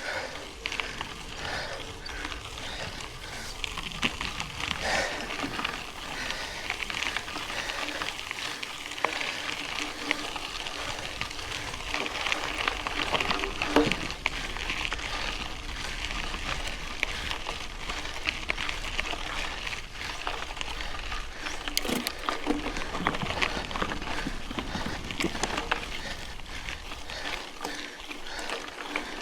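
Mountain bike riding on a dirt road: tyres crunching and crackling over gravel and the frame rattling, with many small clicks and a steady low rumble that drops away near the end.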